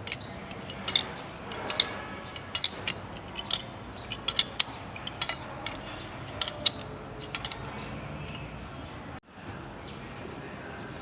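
Sharp metallic clinks and clicks of hand tools and small metal parts being handled, about a dozen irregular ones over the first seven seconds, over a steady hiss.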